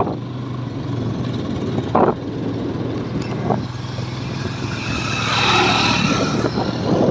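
Motorcycle engine running steadily while riding, with wind and road noise. A louder rush of noise swells about five seconds in and fades out shortly before the end.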